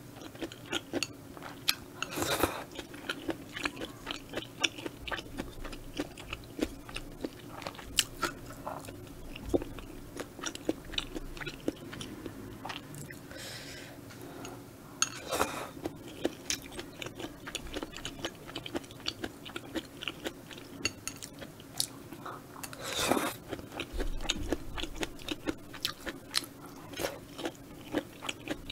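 Close-miked chewing of spicy stir-fried squid and udon noodles: a steady run of wet mouth clicks and smacks, with three louder, longer noises spread through, over a faint steady hum.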